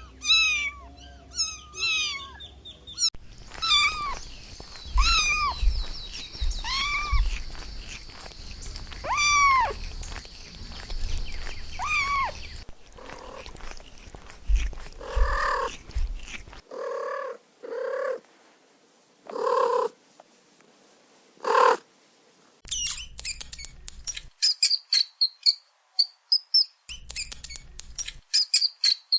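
Kitten meowing repeatedly, high arching mews about once a second, followed by a series of shorter, lower animal calls, then rapid high-pitched chirping near the end.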